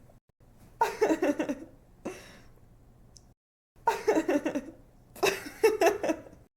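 A woman laughing in bursts of quick, pulsing giggles: three main bursts and a shorter one, with brief pauses between them.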